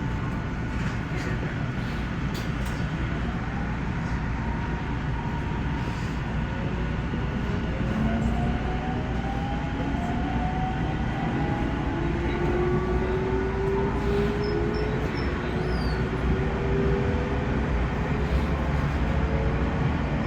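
Electric passenger train running, heard from inside the carriage: a steady rumble of wheels on rail, with the traction motors' whine climbing in several tones together from about eight seconds in as the train accelerates.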